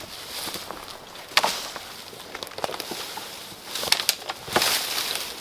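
Brush and twigs being cleared by hand: irregular sharp snaps and cracks of breaking branches over rustling foliage, busiest near the end.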